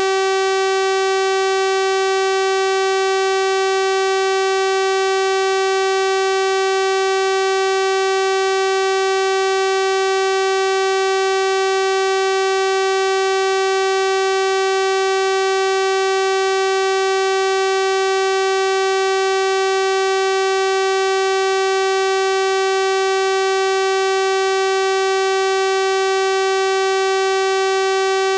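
Synthesized 384 Hz sawtooth-wave tone, held steady at one pitch with no change in level; a bright, buzzy electronic tone rich in harmonics.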